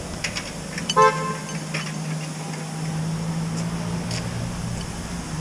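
A short single horn toot about a second in, over an engine running steadily, with a few faint clicks.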